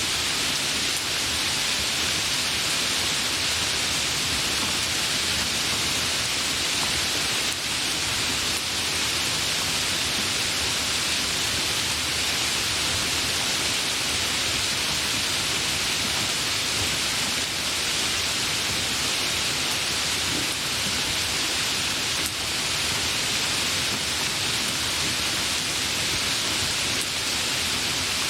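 Steady rain falling, an even hiss that holds at the same level throughout with no thunder.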